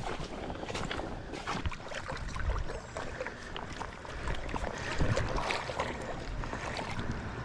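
Creek water sloshing and splashing around the legs of a person wading in waders, with irregular crackling, rustling and a couple of low thumps close to the microphone.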